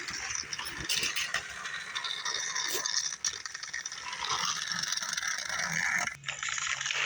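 Toy train rattling and clattering along its track as it pulls away, with scattered clicks. A low steady hum comes in near the end.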